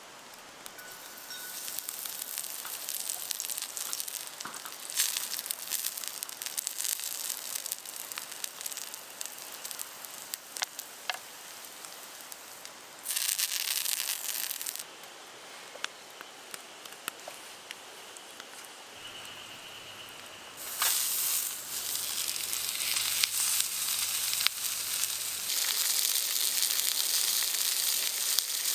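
Oil sizzling and crackling on a hot iron griddle plate over a charcoal grill. There is a burst of louder sizzling about 13 seconds in as garlic and rosemary go into the oil, and a stronger, steady sizzle from about 21 seconds in as a large block of beef sears on the plate.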